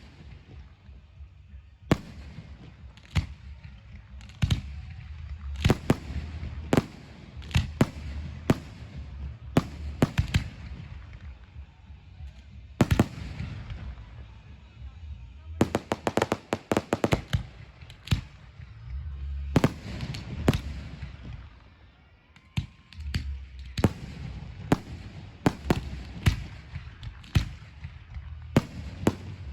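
Aerial fireworks bursting: a long run of sharp bangs, some single and widely spaced, others in quick rapid-fire volleys about halfway through and again near the end, over a steady low rumble.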